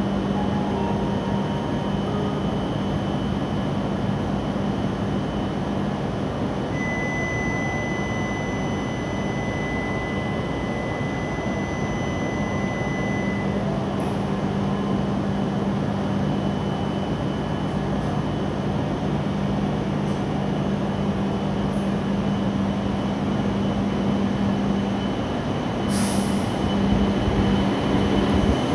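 E7 series Shinkansen standing at the platform with its on-board equipment running as a steady low hum, a steady high tone sounding for several seconds partway through. A short sharp hiss comes near the end, and the train grows louder as it starts to pull out.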